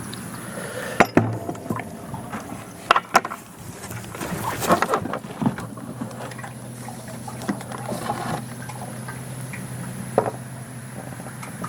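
Hydraulic oil pouring from a 5-gallon bucket into a tractor's hydraulic fill hole, with scattered knocks and clatter from the bucket being handled against the metal, the sharpest about a second in and around three seconds in.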